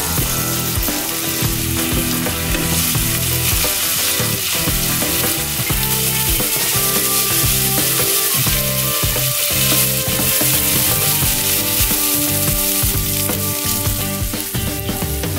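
Sliced ham, red onion and button mushrooms sizzling steadily in hot oil in a nonstick frying pan, stirred with a wooden spatula.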